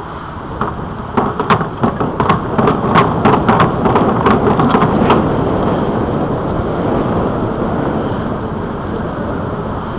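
Wind rushing over the microphone and tyre noise from a bicycle ride, with a quick run of sharp clicks and rattles in the first half that then stops, leaving the steady rush.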